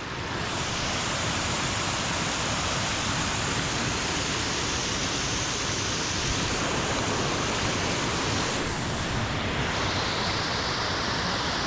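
Small creek waterfall: a steady rush of falling water.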